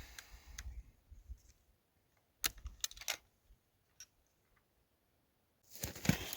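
A quick cluster of sharp clicks, then one more click, followed by a pause and a loud crackling, rustling noise near the end.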